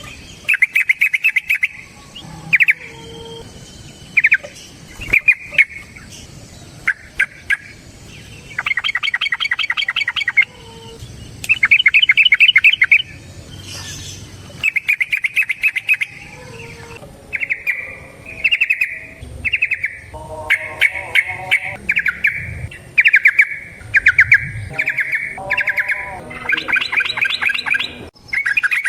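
Yellow-vented bulbul (trucukan) singing its long, rolling 'ropel' song: a string of short, fast phrases of bubbling notes, one after another with brief gaps.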